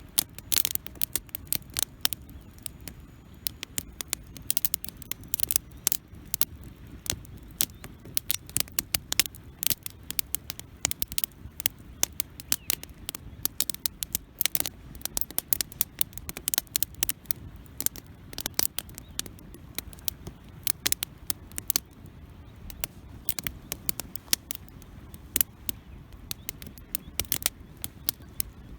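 Wood campfire burning, with dense, irregular sharp crackles and pops over a low steady rumble.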